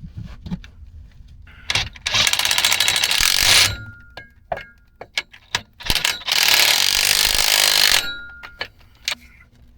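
A power tool run in two bursts of nearly two seconds each, with sharp metallic knocks and clicks between them and a brief ringing tone after each burst.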